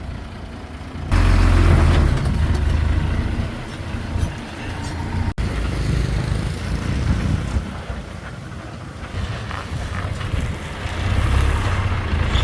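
Diesel engine of heavy construction machinery running steadily, getting louder about a second in.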